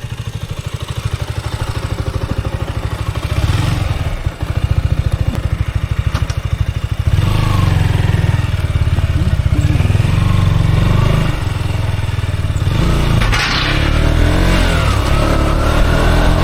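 Motorcycle engine running with a steady low firing pulse, growing louder about seven seconds in.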